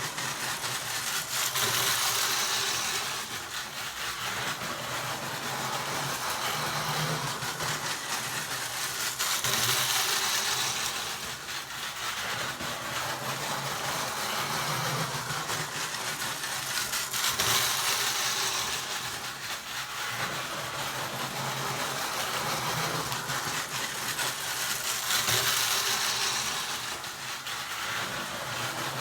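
Lionel prewar tinplate toy electric locomotive running along its track, a steady mechanical whirr and rattle that swells roughly every eight seconds as the train comes round past.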